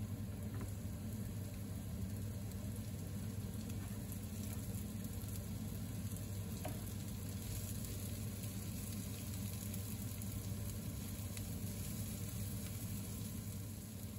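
Sliced onion, spring onion and garlic sizzling steadily in oil in a nonstick frying pan, stirred now and then with a silicone spatula. A steady low hum runs underneath.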